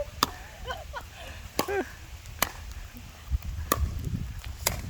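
Pickleball rally: paddles striking the plastic ball, five sharp pocks about a second apart, over a low steady rumble.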